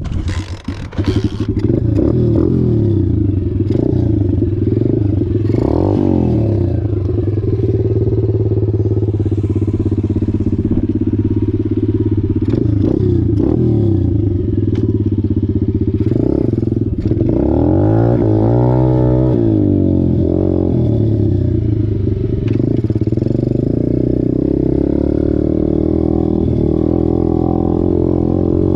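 125cc dirt bike engine running as the bike is ridden, the revs dropping and climbing again about two-thirds of the way through. A few sharp clattering knocks near the start.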